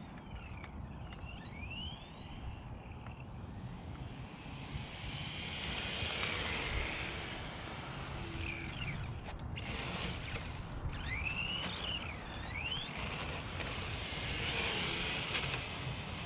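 ARRMA Talion 6S RC car's brushless motor whining as it is driven, rising and falling in pitch several times with bursts of throttle, including a quick hit of full throttle, over a steady low rumble.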